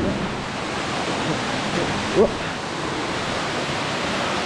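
Steady rushing of a waterfall, an even roar of falling water, with a brief rising sound about two seconds in.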